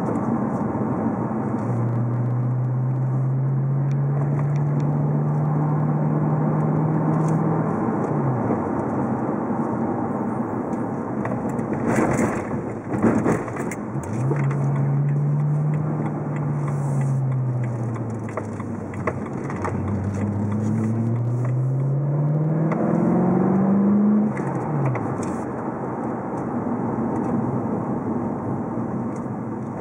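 BMW E92 with a CNT Racing catback exhaust, heard from inside the cabin with the windows up, over steady road noise. The engine note climbs under acceleration, drops at a shift, rises and eases off again, then climbs quickly once more before dropping near the end, with a few sharp knocks about halfway through.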